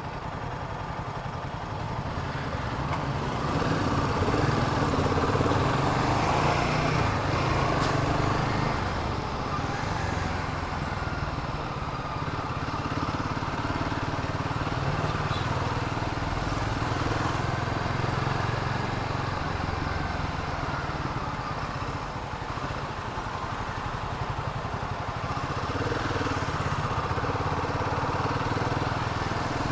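Royal Enfield Himalayan 450's single-cylinder engine running as the bike rides through slow city traffic, with steady low engine tone and road noise, a little louder a few seconds in.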